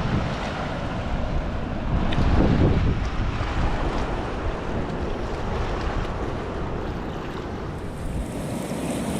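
Wind buffeting the microphone: a steady rushing, rumbling noise that swells louder for a moment about two seconds in.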